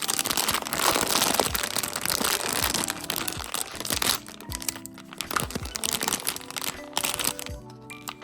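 Crinkly packaging of a POPMART blind-box toy being handled and unwrapped by hand: dense crinkling for about four seconds, then again briefly near the end.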